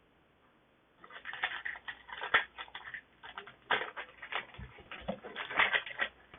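Foil booster pack wrapper crinkling and tearing as it is opened, an irregular run of crackles starting about a second in.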